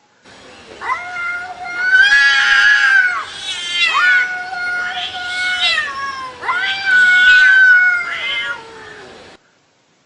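A cat yowling in three long, drawn-out meows, the sound cutting off suddenly near the end.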